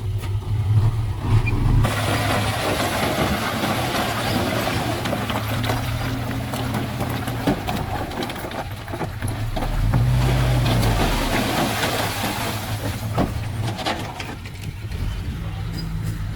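Heavy diesel engine of earthmoving equipment running steadily. From about two seconds in until near the end it is joined by a loud, rushing, rattling noise.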